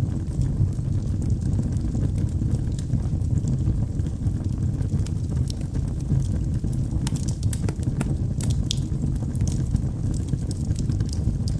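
Wood fire burning in a fireplace: a steady low rumble of the flames with scattered sharp crackles and pops from the logs, busier about two-thirds of the way through.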